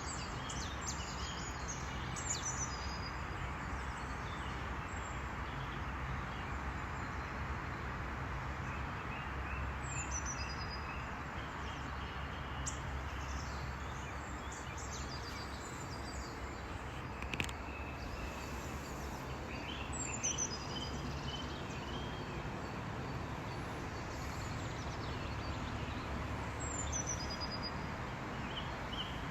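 Steady outdoor background noise with birds chirping now and then in short falling series, and a single sharp click about two-thirds of the way through.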